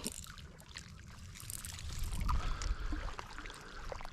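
Wind rumbling on the microphone, swelling about halfway through, with light clicks and rustles over it.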